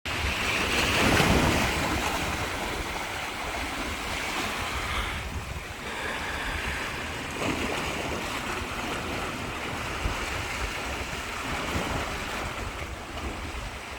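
Sea waves washing onto the shore, with wind on the microphone; the surf swells loudest about a second in.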